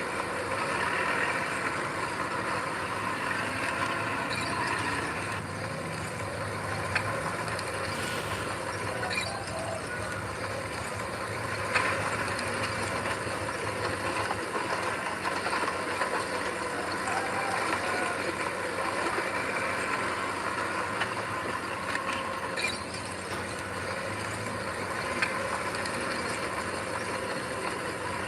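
Heavy diesel earthmoving machinery running steadily, with a few sharp clanks.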